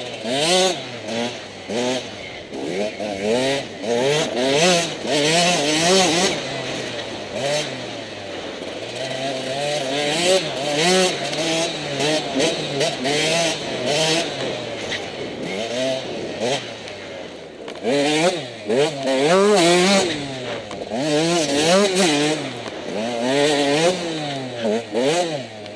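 Enduro motorcycle engine revving up and down over and over under riding throttle, its pitch rising and falling every second or two.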